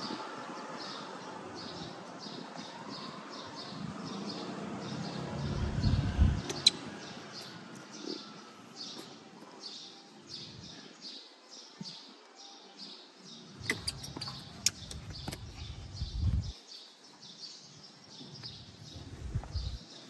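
A small bird chirping over and over, short high chirps at about two a second. Low rubbing and bumping from cloth being handled close by comes and goes, loudest about six seconds in.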